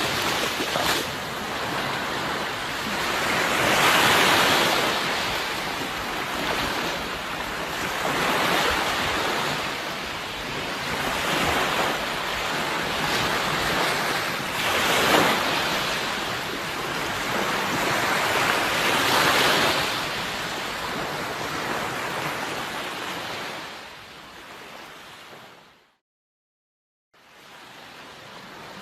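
Sea waves surging and washing in, swelling and ebbing every few seconds. Near the end the sound fades out to about a second of silence, then returns quieter.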